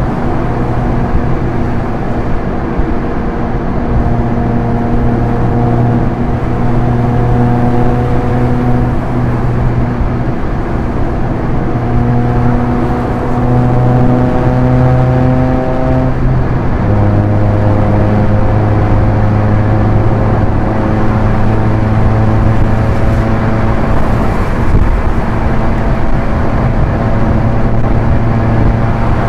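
Proton Inspira's 1.8-litre MIVEC four-cylinder engine pulling at high expressway speed, its pitch climbing slowly, then dropping sharply about 16 seconds in at a gear change and running on steady, over constant tyre and wind noise.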